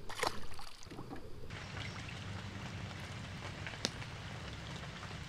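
Rain falling on a river's surface: a steady, soft hiss of drops that begins about a second and a half in, with one sharp tick near the middle.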